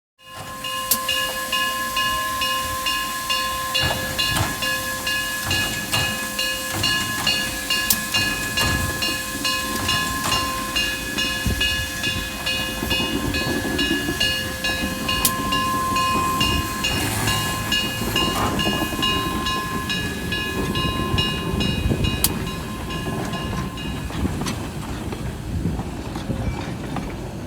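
A train running on rails: wheel clatter with repeated clicks and a steady, many-toned wheel squeal that stops about 24 seconds in.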